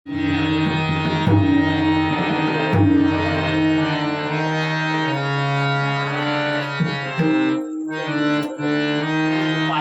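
Harmonium playing a melody in held notes, accompanied by tabla and pakhawaj drum strokes, in bhajan style. The sound briefly thins out for a moment near the end before the harmonium carries on.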